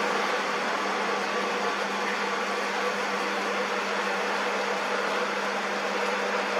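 Metal-turning lathe running steadily, a constant motor hum with a whirring haze over it and no change in speed.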